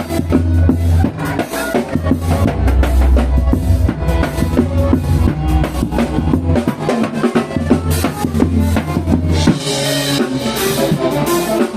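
Live amplified forró band music during a sound check: drum kit and a held bass line keep a steady beat. The bass drops out about nine and a half seconds in.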